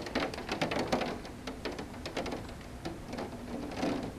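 Heavy thunderstorm rain falling, with close drops tapping irregularly and in quick clusters against a hard surface near the microphone.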